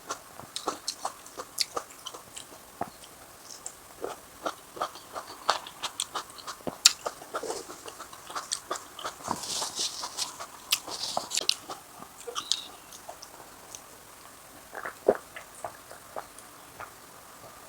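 Close-miked eating of spicy fish head and raw vegetables: irregular crunches and wet mouth clicks from chewing, with a brief hissy stretch about halfway through.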